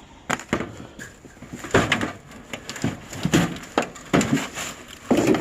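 Irregular metal knocks, scrapes and creaks as steel pry bars work a heavy scrap copper-aluminium radiator coil, its tubes pulling out through the end plate.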